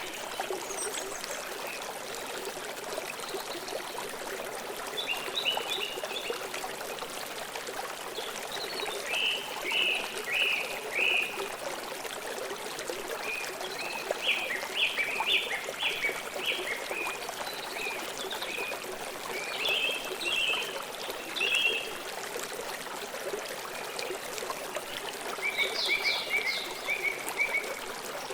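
Steady rush of flowing river water, with short series of high chirping bird calls that come and go every few seconds over it.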